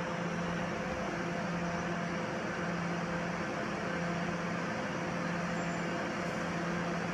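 Steady machinery hum and hiss of a train idling at a station platform, with a low drone that cuts in and out about once a second over constant higher tones.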